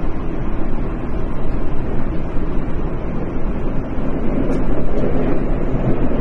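Tokyo Metro 10000 series electric train running at speed between stations: a steady rumble of wheels on rail and running gear, with no clear motor tone.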